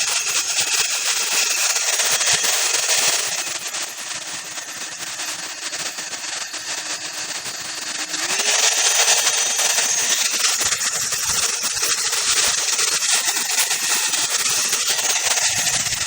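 Ubeator hot air brush running, its fan motor giving a loud steady rush of air with a hum. About three and a half seconds in it drops to a lower, quieter pitch. Near eight seconds in it glides back up to the higher, louder one.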